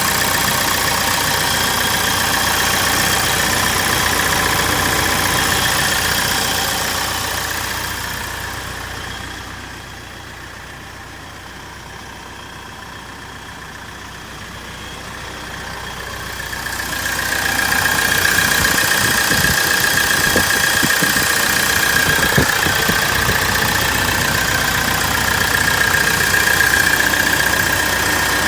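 Isuzu Elf truck's engine idling steadily, with a high whine riding over it; the sound fades noticeably quieter about seven seconds in and comes back up to full level around seventeen seconds.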